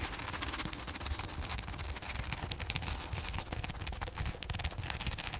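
Many irregular light clicks and knocks over a steady low rumble.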